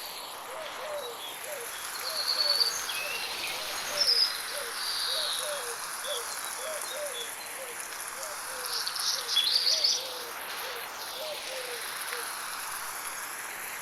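Birds chirping in short high bursts, loudest around a quarter of the way in and again about two-thirds through, over a steady high insect drone and the hiss of light rain, with a low note repeated about twice a second throughout. The ambience is 8D-processed, panned around the listener's head.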